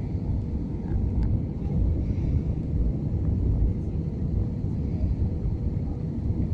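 Airliner cabin noise heard from a window seat: a steady low rumble of the jet engines and airflow, with a faint steady hum above it.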